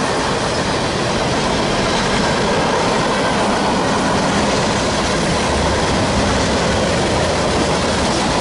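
Freight cars of a mixed manifest train rolling past: steady, loud wheel-on-rail noise with clickety-clack over the rail joints.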